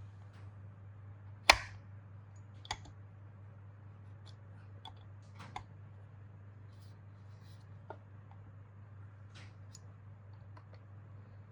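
Scattered sharp clicks and taps of small hard parts being handled, with one louder click about a second and a half in, over a steady low hum.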